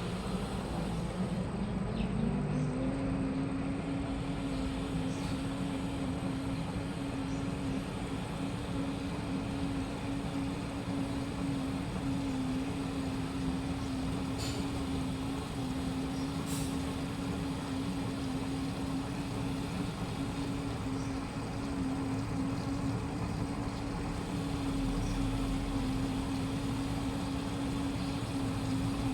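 Washing machine on its spin cycle: the drum motor's whine rises in pitch over the first couple of seconds, then holds steady at speed over a constant hum, with a couple of faint ticks midway.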